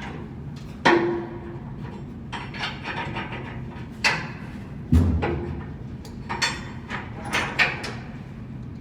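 Irregular metal clanks and knocks from tools and parts on the blower-wheel bearing job, about eight in all. Several ring briefly; the loudest, about five seconds in, lands with a heavy thud.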